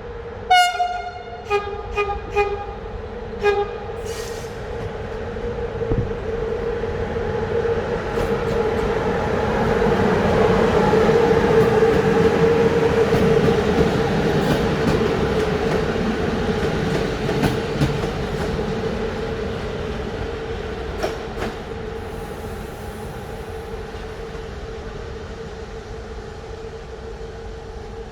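Train horn sounding a handful of short blasts. The train then runs in, its rumble swelling and fading with clicks of the wheels over the rail joints, over a steady hum.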